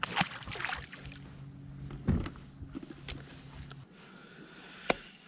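Handling noise on a fishing kayak on the water: rustling and splashing, then a few sharp knocks against the hull, over a steady low hum that stops about four seconds in.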